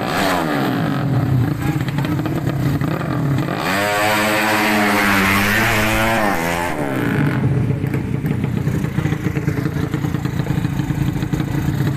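Underbone drag-race motorcycle engines: revving with the pitch gliding up and down, then a loud high-revving run from about four to seven seconds that climbs and then falls in pitch, then engines running steadily.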